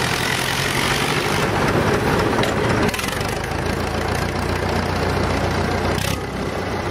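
Old tractor engine idling with a steady low note, shifting slightly about three seconds in.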